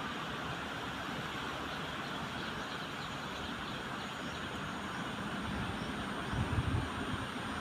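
Train running steadily at a station: a continuous rumble with a hiss, with a brief low thump about six and a half seconds in.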